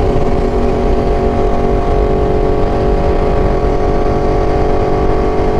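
Aprilia RSV4 V4 sport bike engine running at a steady cruising speed, its pitch holding level, over a low rush of wind noise.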